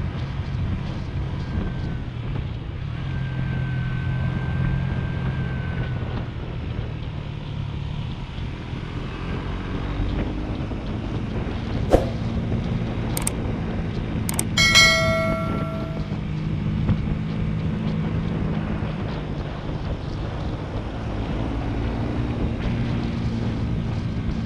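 Motorcycle engine running under way, its pitch rising and falling with the throttle, with wind on the microphone. A few sharp clicks sound near the middle, followed by a short horn beep about fifteen seconds in.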